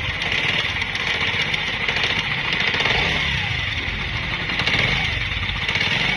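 Honda CD 70's single-cylinder four-stroke engine running steadily with abnormal mechanical noise from the engine. The mechanic traces this noise to a broken small bearing on the camshaft.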